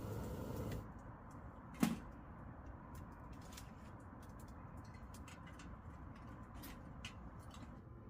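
A steady rushing noise stops a little under a second in. About a second later comes one sharp knock, then faint, scattered clicks.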